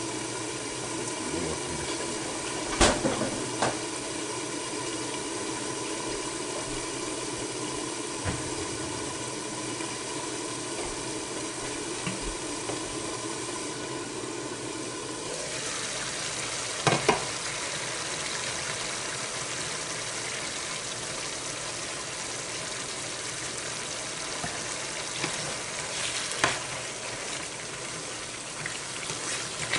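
Chicken pieces sizzling and simmering in a frying pan, the sizzle getting brighter and fuller a little past halfway once the glass lid is off. A few sharp knocks of lid or utensil against the pan, one near the start and one just after the change, and a spatula stirring near the end.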